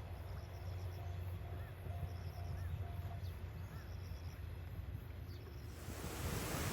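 Quiet outdoor ambience with a low steady rumble and a few faint bird chirps. A broad hiss rises near the end.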